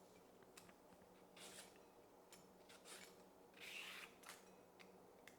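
Faint food-preparation handling noise: several short scraping and rustling strokes over a few seconds, with a low steady hum beneath.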